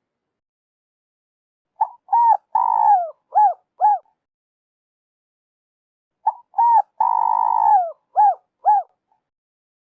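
Spotted dove cooing: two identical phrases about four seconds apart, each made of two short coos, one long coo that falls away at its end, and two more short coos.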